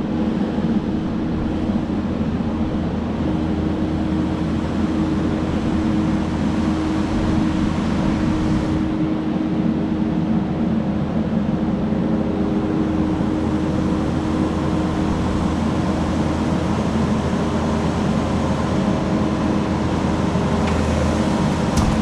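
Diesel engine of a Kubota SVL75-2 compact track loader running steadily, with a constant low drone.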